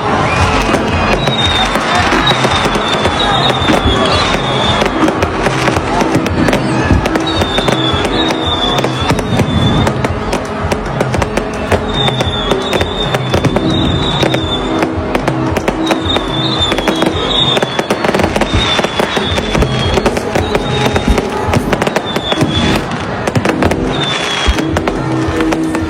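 Fireworks going off in a dense, continuous run of crackling bangs, with music playing underneath.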